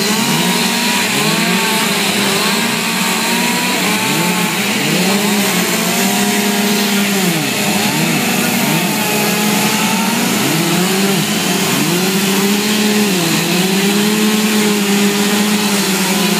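Chainsaw carving wood, running mostly at high revs, its engine pitch dropping and climbing back again and again through the cuts.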